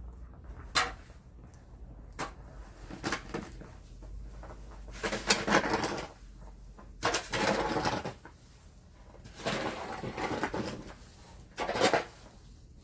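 Snow shovel working through snow: several scraping, scooping strokes about a second long, with a few sharp knocks in between.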